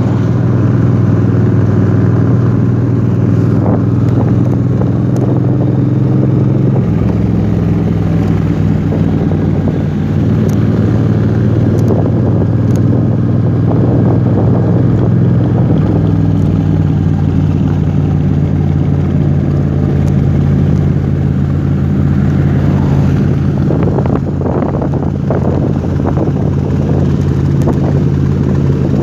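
Motorcycle engine running steadily while riding, with the pitch shifting a couple of times as speed or gear changes.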